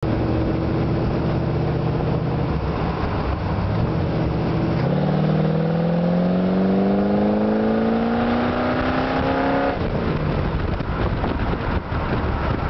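Street rod's 327 Chevrolet V8 running through Cherry Bomb exhaust, cruising steadily at first. From about five seconds in it accelerates, its note rising steadily, and the rising note breaks off just before ten seconds.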